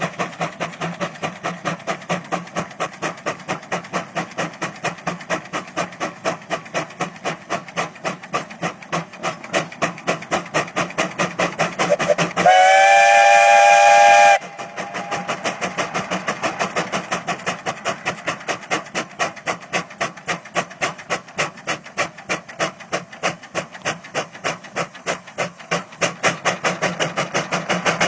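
A vintage engine running with a steady beat, about three to four beats a second. About halfway through, a steam whistle blows a loud chord for about two seconds, then the engine beat carries on.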